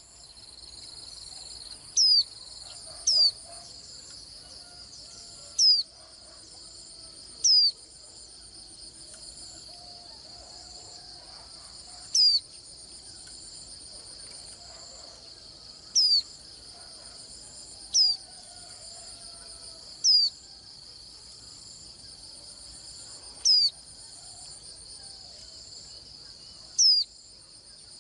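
A white-eye giving short, thin, high call notes that slide downward, about ten of them at irregular intervals of one to four seconds, over a steady trilling chorus of crickets.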